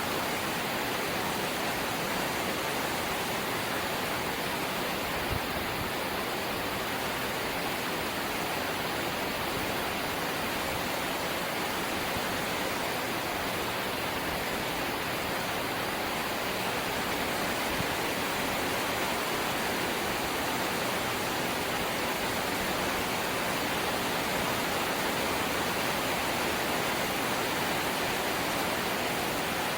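Steady, heavy rain drumming on a corrugated zinc roof, a dense even hiss of drops hitting sheet metal.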